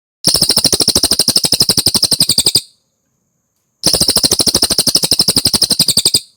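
Cililin bird singing: two rapid trills of about a dozen notes a second, each lasting a little over two seconds, with a gap of about a second between them.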